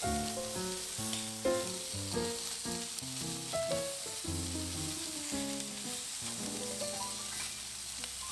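Chicken pieces sizzling on a hot grill, a steady hiss, with background music playing a melody of short notes over it.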